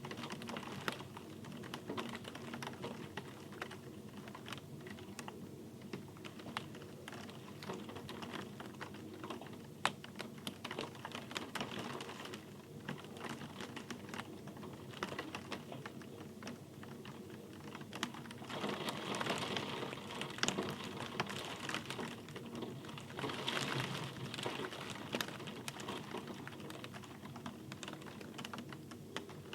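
Rain falling as separate drops that tap irregularly on a hard surface. There are two heavier, denser spells a little past the middle.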